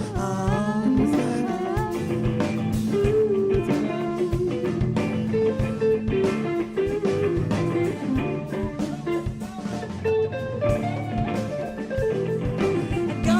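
A band playing an instrumental passage: a guitar picks out a stepping melodic line over a drum kit keeping a steady beat.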